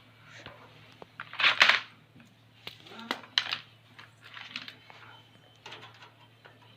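Irregular clicks, taps and short scrapes of hands handling computer hardware, with the loudest scrape about one and a half seconds in, over a steady low hum.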